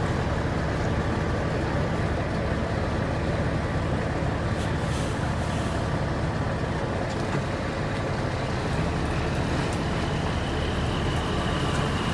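Diesel locomotive engines running steadily with a low rumble; a faint high steady tone joins near the end.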